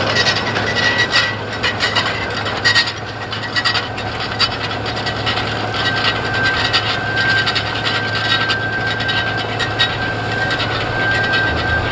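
Case Steiger 9370 tractor's six-cylinder Cummins N14 turbocharged diesel working steadily under load while pulling a tine cultivator, with steady irregular clattering and rattling from the machinery.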